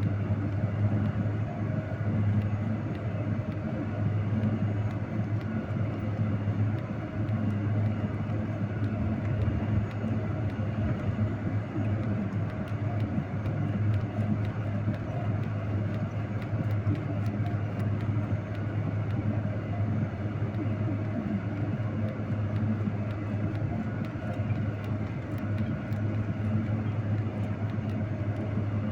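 Steady low drone of a vehicle engine running under way, with road noise.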